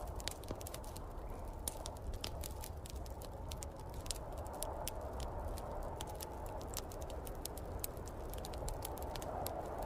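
Wood fire crackling in a fireplace, with many small irregular pops, over a steady low rush of storm wind.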